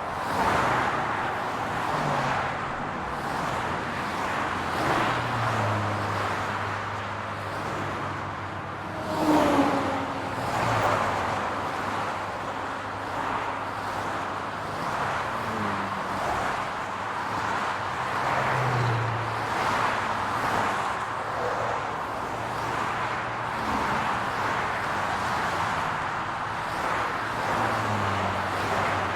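City street traffic: a steady hum of cars with engines coming and going as vehicles pass, one passing noticeably louder about a third of the way through.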